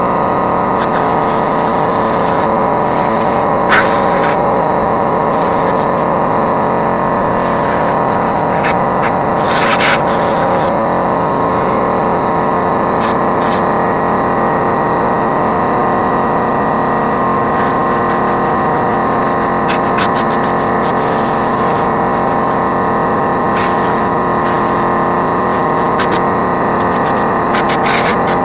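A motor running steadily with an unchanging whine, and a few sharp clicks about four and ten seconds in.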